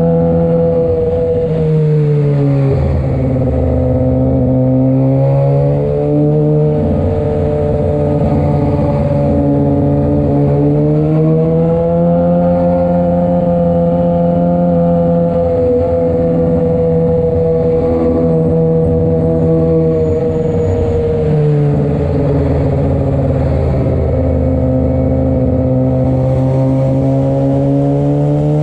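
Sportbike engine running at low speed under light throttle. Its note rises and falls several times as the rider eases on and off the throttle.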